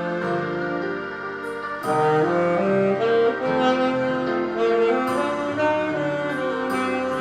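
Yamaha YAS-280 alto saxophone with a Selmer Concept mouthpiece playing a slow ballad melody in long held notes, played by a self-taught beginner. It plays over a karaoke-machine backing track with a few sharp crashes about two, five and seven seconds in.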